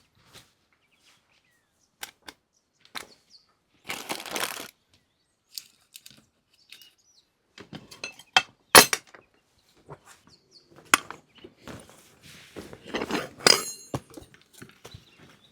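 Cookware and utensils being handled at a camp kitchen: scattered knocks and clinks, a short rustle about four seconds in, a sharp loud knock just before the middle, and a ringing metallic clink near the end.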